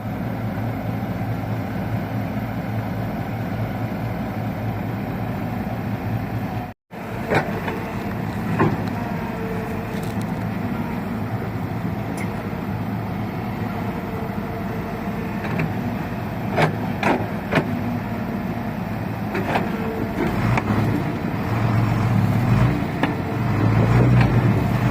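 Excavator's diesel engine running steadily, with scattered sharp clanks and the engine getting louder near the end. The sound cuts out briefly about seven seconds in.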